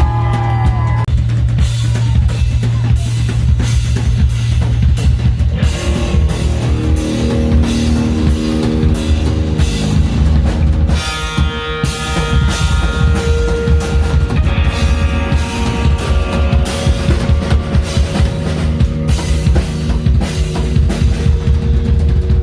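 Rock band playing an instrumental passage: a drum kit with bass drum and cymbals drives under a heavy bass line. Sustained melodic lines come in about six seconds in.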